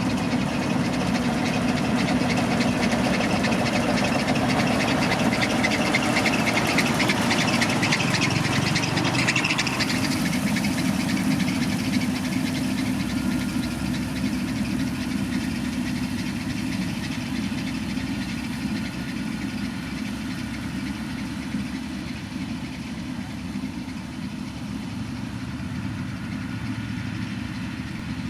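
Heavy diesel engine of road-building machinery running steadily, with extra noise over the first ten seconds or so that then eases, leaving a slightly quieter, steady engine hum.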